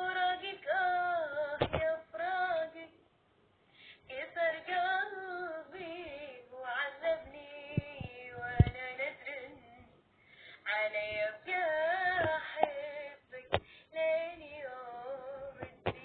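A female voice singing in short phrases with brief pauses, with a few sharp clicks in between.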